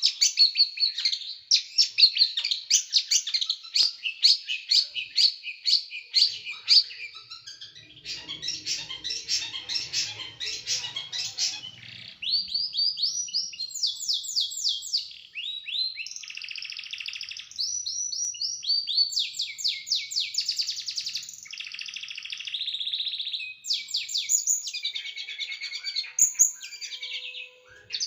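Small songbird singing in rapid bursts of sharp, high, repeated notes: the fast, dense 'shooting' song (tembakan) used to tutor cage birds. A quick run of sharp notes gives way to a dense rattle, then to varied trills and buzzy phrases.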